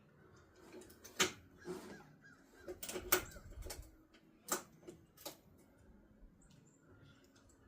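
Sharp clicks and light knocks of hand tools and small parts being handled while a part is fitted back into a mower, about five distinct strikes over the first five or so seconds, then fainter ticking.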